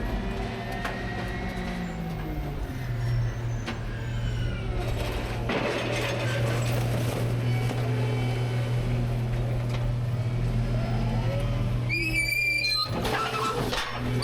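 Rear-load garbage truck's engine and hydraulics running, with gliding pitch early on settling into a steady low drone a few seconds in. A high squeal comes in near the end.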